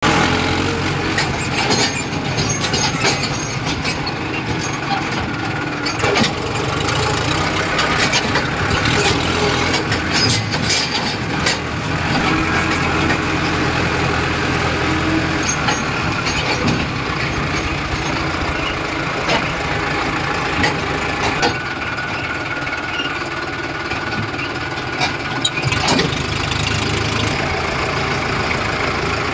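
John Deere tractor's diesel engine running steadily, with occasional sharp knocks and clanks.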